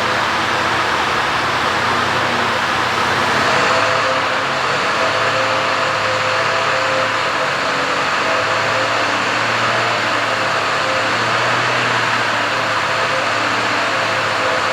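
Euro 6 diesel engine of a Mercedes-Benz 2530 rigid truck running steadily at idle after its start.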